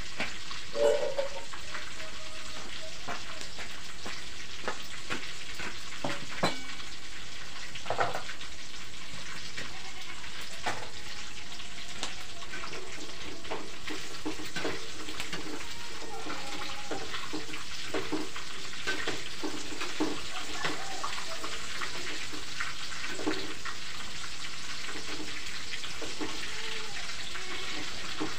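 Food frying in hot oil in a wok, a steady sizzle, with a metal spatula clinking and scraping against the wok now and then.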